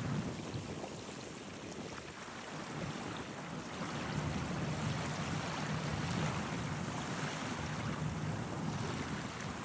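Small ocean waves washing onto a beach, a steady surf hiss that swells into a fuller wash about four seconds in.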